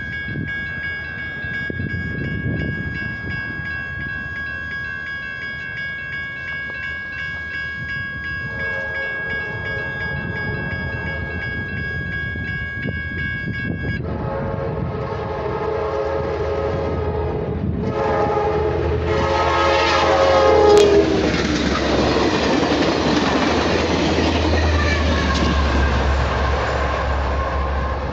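Railroad crossing bell ringing steadily until it stops about 14 seconds in. Meanwhile the horn of an approaching Amtrak Piedmont passenger train sounds, faint at first and then louder, dropping in pitch as the locomotive passes about 20 seconds in. Then comes the rumble and clatter of the train going by.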